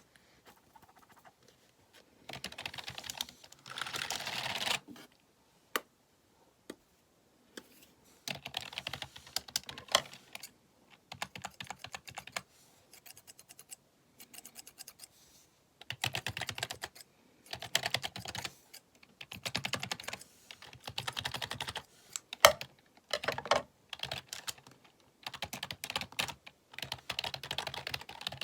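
Computer keyboard typed in quick clattering runs of one to two seconds, with short pauses between them and a few single, sharper key strikes.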